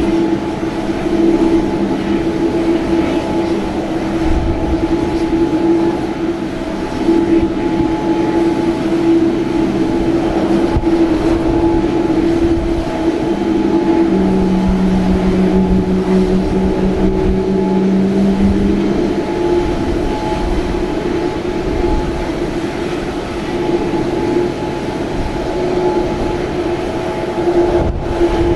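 Jet airliner noise on the apron during pushback: a steady whine made of several constant tones over a rushing drone, with a lower hum joining for about five seconds midway.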